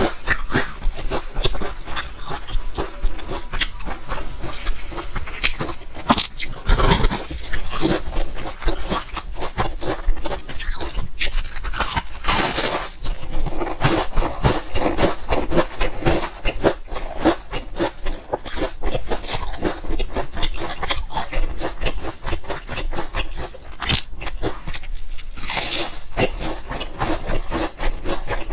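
Chewing and crunching of a pumpkin-filled pastry cake: a dense run of crackly bites and mouth sounds.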